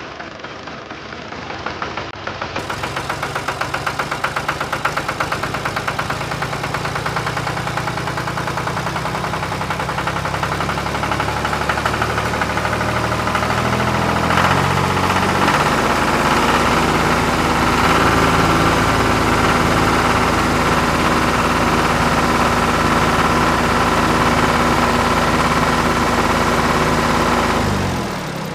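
Tractor engine starting about two seconds in and running with a fast, even knocking beat. It grows louder and stronger about halfway through, as if pulling under load, then holds steady until it cuts off just before the end.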